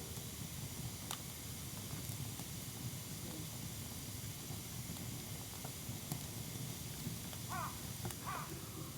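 Campfire burning with a steady low rush and a few sharp crackles. Two short bird calls sound near the end.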